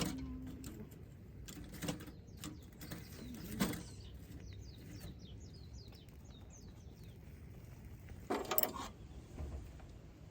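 A bird calling in a quick run of short, high, falling notes in the middle, over a handful of sharp clicks and knocks, the loudest at the very start and a cluster about eight seconds in.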